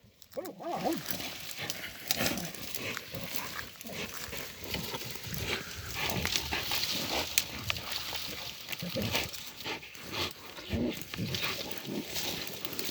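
Dogs growling and snarling as they fight a puma, in uneven, irregular spells with short calls here and there.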